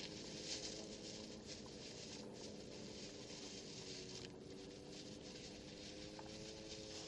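Faint scratchy rustling over a low, steady hum of a distant motor whose pitch drifts slightly.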